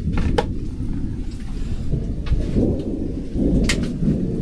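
Thunder rumbling through heavy rain, the low rumble swelling and easing, with a few sharp taps over it near the start and again near the end.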